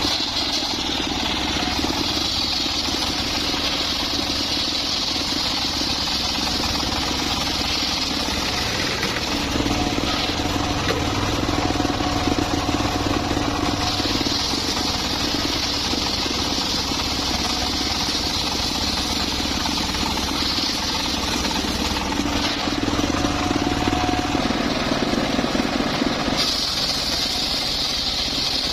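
Circular saw running and cutting mahogany wood, over a steady low hum from the machine that drives it. A brighter, higher cutting sound rises over the hum three times: for the first several seconds, for a stretch about halfway through, and again near the end.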